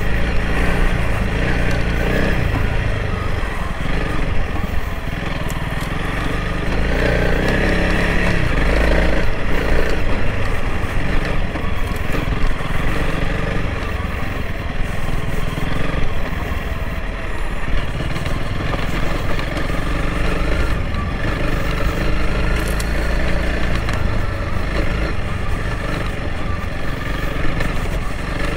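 Honda CRF300L Rally's single-cylinder engine running as the dual-sport bike is ridden off-road over a gravel river bar, its engine note rising and falling with the throttle and a little louder around eight to ten seconds in.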